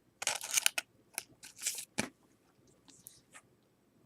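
1992-93 Fleer Ultra basketball trading cards being handled and flipped through: short, crisp slides and clicks of card stock against card, in several separate bursts with pauses between.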